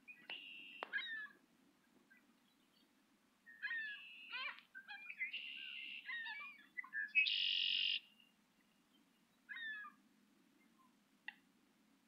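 Wild birds calling in several short bouts of high, quick, falling notes, the loudest a harsh, dense call lasting nearly a second about seven seconds in.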